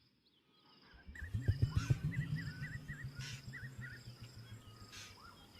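Night-time bush ambience: insects trilling steadily with a high pulsing chirp, and a run of quick repeated chirps from about one and a half to three and a half seconds in. A low rumble runs underneath, loudest about two seconds in, then fading. The first second is nearly silent.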